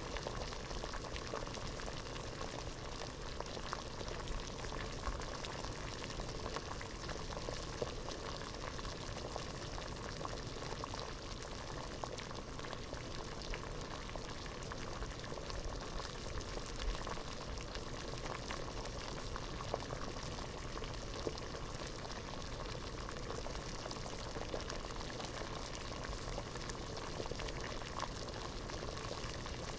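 Water boiling hard in a pot: steady, dense bubbling with many small pops scattered through it.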